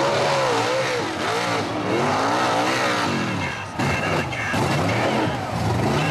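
A nitrous-fed mud truck engine revving hard on a run through the mud pit. Its pitch climbs and falls again and again as the paddle tires spin and grab, and it drops off briefly a little before four seconds in before coming back to full.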